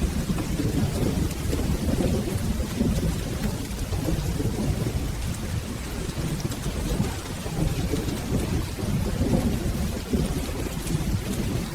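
Steady rain with a low, rolling rumble of thunder that swells and fades throughout.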